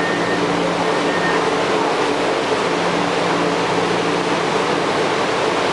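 Interior ride noise of a rubber-tyred Bombardier Wenhu line metro train running: a steady rush of running noise with a steady low hum under it.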